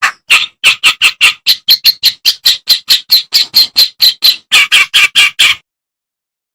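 Kerak basi (reed warbler) song: a rapid, even run of short, scratchy notes, about four a second, that stops abruptly about five and a half seconds in.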